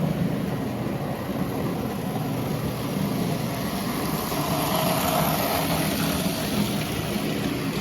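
Model train running on the layout: a steady motor hum with wheels rumbling on the track, louder for a couple of seconds in the middle.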